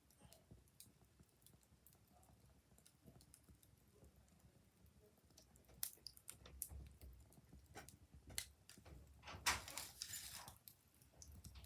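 Wood fire crackling faintly: scattered, irregular pops, with a denser burst of crackling near the end.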